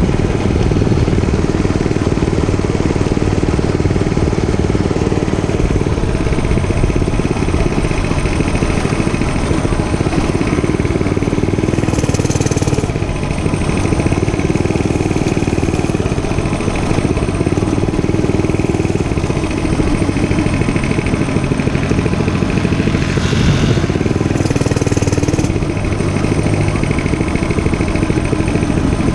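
Dirt bike engine running while riding, its pitch wandering up and down a little with the throttle. A short hiss cuts in twice, near the middle and again a few seconds before the end.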